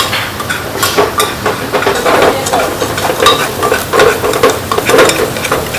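A metal utensil stirring and scraping food in a hot pan: repeated clicks and scrapes, several a second, over a sizzle.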